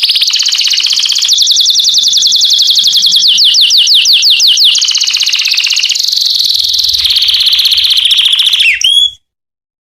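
Male domestic canary singing, a loud run of fast trills of repeated high notes that change from one roll to the next every second or two; the song cuts off suddenly about nine seconds in.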